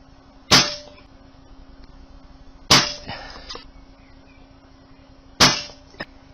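Brocock Concept PCP air rifle firing three shots, about two and a half seconds apart, each a sharp crack with a short ringing tail. A small click follows the last shot.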